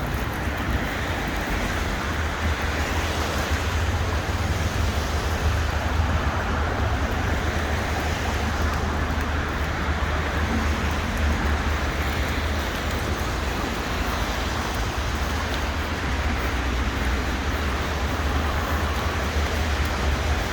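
Steady city street noise dominated by road traffic, with a constant low rumble.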